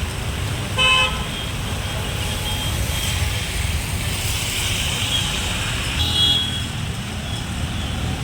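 Road traffic with a steady low rumble. A vehicle horn sounds briefly about a second in, and a second, shorter honk comes around six seconds in.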